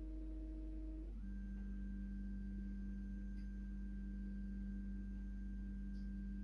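Steady, pure humming tones. The main tone drops to a lower pitch about a second in and then holds, over a constant low hum.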